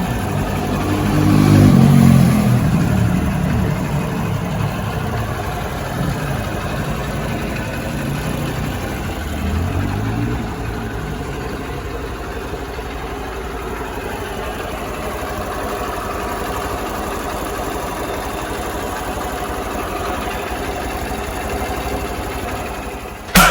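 Hero Hunk 190R's single-cylinder engine idling. It is revved up briefly near the start and again about ten seconds in, then settles to a steady idle.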